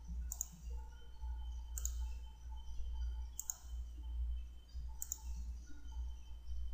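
Computer mouse clicking four times, about a second and a half apart, over a steady low electrical hum.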